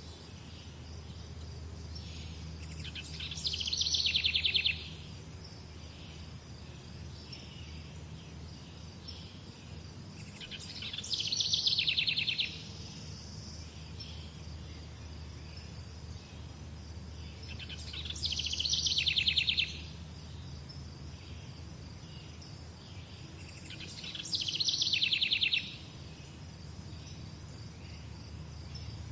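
A songbird sings the same short, rapid trilled phrase four times, about every seven seconds. Each phrase swells in loudness and then cuts off sharply. A low steady hum runs underneath.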